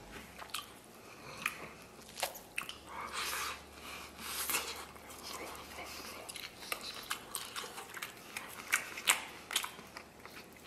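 A person biting and chewing braised beef torn from a beef bone, close to the microphone, with irregular sharp clicks and short wet mouth noises.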